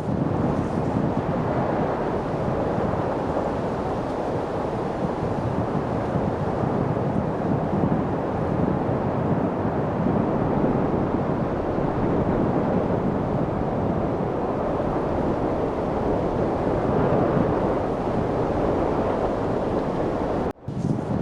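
Steady wind, an even rushing noise with no distinct gusts, dropping out for a split second near the end.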